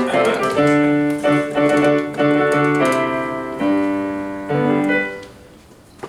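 Piano chords played on a keyboard as a short musical sting, the chord changing about every half second and the playing stopping about five seconds in.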